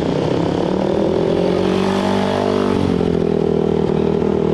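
Off-road race motorcycle engines running and revving: the pitch climbs for about a second, drops about three seconds in, then holds steady.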